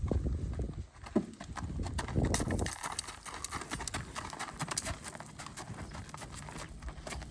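Hoofbeats of a keg-shod spotted saddle horse mare, a quick run of clip-clops, with low rumbles near the start and about two seconds in.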